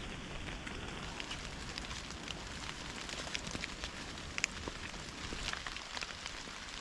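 Rain falling: a steady hiss with irregular sharp ticks of single drops landing.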